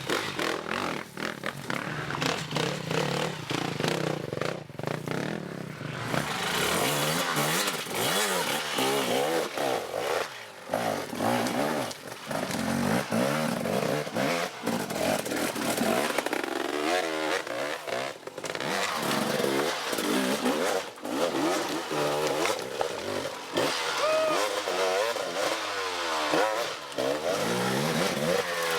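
Off-road motorcycle engines revving up and down repeatedly as the bikes are ridden, their pitch rising and falling over and over. Several short curving whines come near the end.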